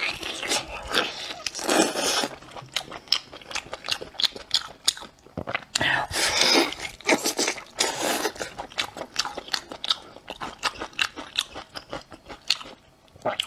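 Close-up eating sounds: biting and chewing braised lamb leg meat and gelatinous tendon off the bone, with many short wet mouth clicks and smacks.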